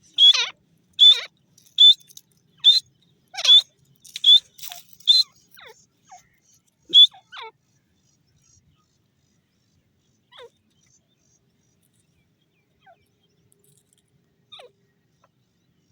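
Grey francolin calling: a fast series of loud, shrill calls, about one a second, for the first five seconds, one more about seven seconds in, then only a few faint distant calls.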